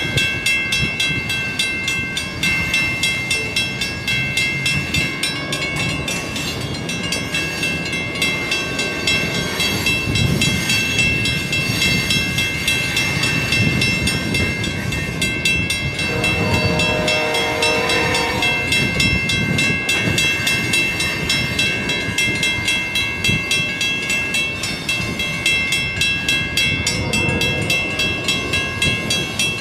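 Potash-laden covered hopper cars of a freight train rolling past, their wheels rumbling and clacking over the rails, while a grade-crossing warning bell rings with steady, evenly repeated strikes. About halfway through, a pitched sound with several tones lasts a few seconds.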